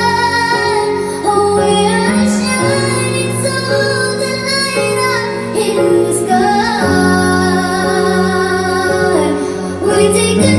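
Music: a woman singing long, held notes that change pitch every second or two, over a sustained instrumental accompaniment.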